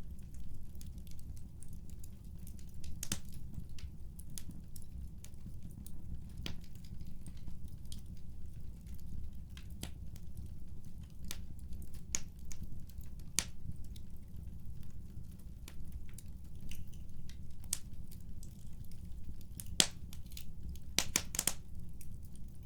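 Fireplace crackling: irregular sharp pops and snaps over a steady low rumble of the fire, with a quick run of pops near the end.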